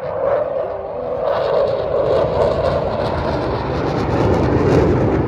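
Eurofighter Typhoon jet engines roaring through a display manoeuvre, the roar growing louder toward the end.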